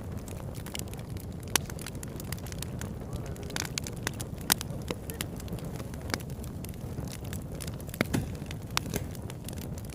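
Campfire burning: a steady low rumble of flames with irregular sharp crackles and pops from the burning wood, a few louder pops standing out about one and a half, four and a half and eight seconds in.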